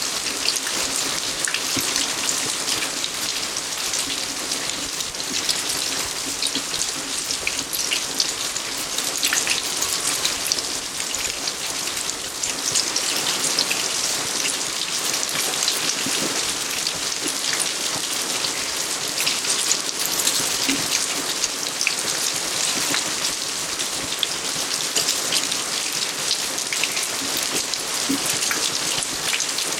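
Steady rain falling on outdoor surfaces, an even hiss dotted with many small drop hits.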